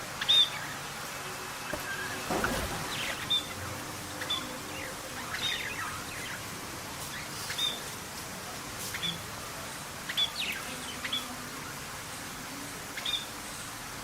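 Small birds chirping: short, high chirps every second or so, mixed with a few other quick calls, over a steady background hiss.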